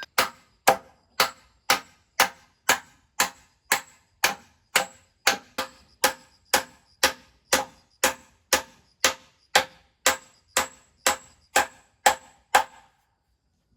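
A hand tool striking wood in a steady rhythm, about two blows a second, each with a short ring. The blows stop near the end.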